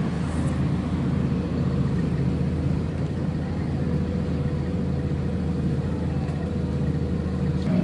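Agrale MT 17.0 LE bus's four-cylinder diesel engine running at a steady speed: an even low hum with a faint steady whine above it.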